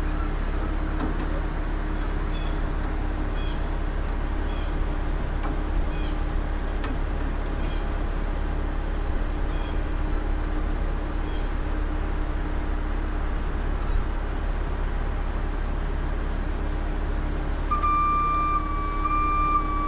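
Heavy diesel truck engine idling steadily, with a faint high chirp repeated about once a second in the first half. Near the end a high steady tone comes in and holds, broken by short gaps.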